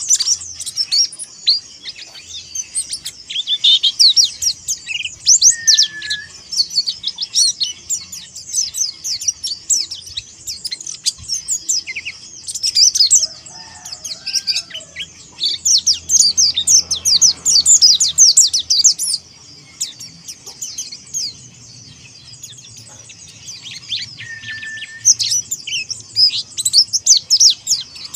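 Mountain white-eye (pleci monty) singing a long, rapid, high twittering song of quick chirps, in several runs with a pause of a few seconds a little past the middle.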